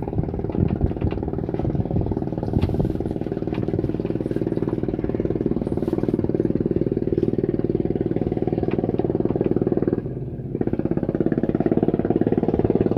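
A small engine running steadily at a constant speed, with a brief dip about ten seconds in before it picks up again.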